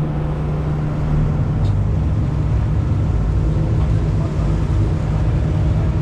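Boat engine running steadily, a constant low drone with a rumble beneath it.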